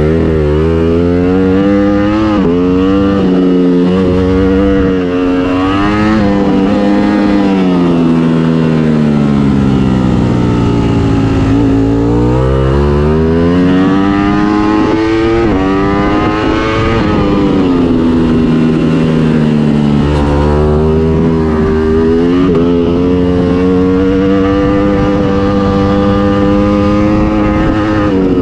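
2018 Ducati Panigale V4's 1103 cc V4 engine with an Akrapovic exhaust, ridden hard on a race track and heard on-board. It runs through quick upshifts in the first few seconds, falls away slowly mid-way as the bike slows, then climbs steadily again under throttle.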